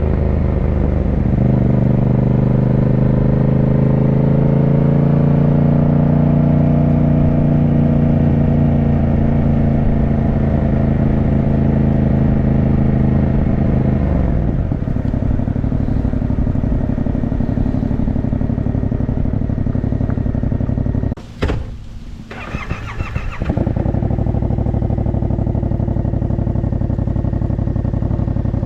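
Yamaha motorcycle engine running under way, its note holding steady and rising slightly, then dropping about halfway through. A short lull about three quarters of the way in, after which the engine picks up again.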